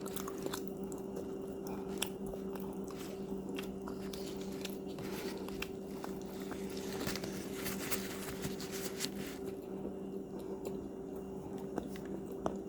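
Close-up crunchy biting and chewing of hard cookies, a steady run of crackling crunches, with a constant low electrical hum underneath.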